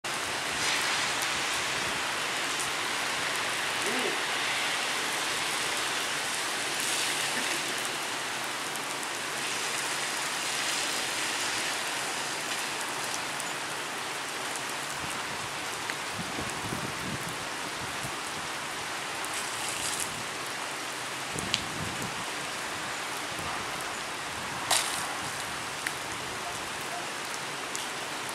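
Steady rain hiss, with a few faint wavering engine tones now and then and two sharp clicks near the end.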